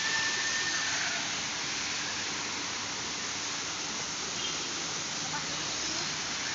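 Steady rushing noise, with a faint high whistle in the first second and a few faint short chirps later.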